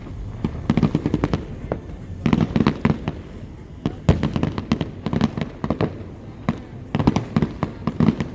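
Fireworks going off in rapid clusters of bangs and crackles, several volleys in a row.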